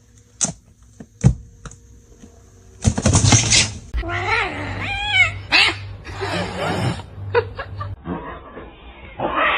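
A cat meowing, several calls with bending pitch, after a few sharp clicks and a short burst of noise about three seconds in.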